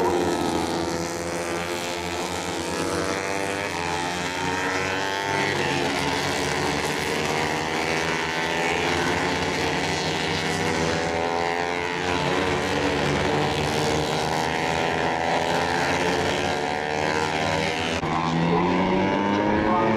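Several Moto3 race bikes' 250 cc single-cylinder four-stroke engines running at high revs together, their pitches rising and falling as they accelerate and change gear.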